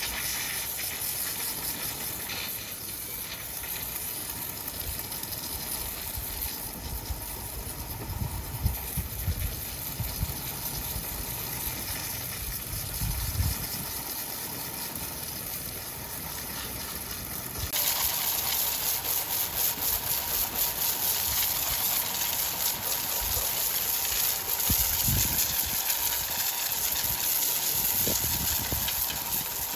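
Sawmill machinery running with a steady hiss and scattered low knocks. About 18 s in it turns suddenly louder and brighter, with a steady whine.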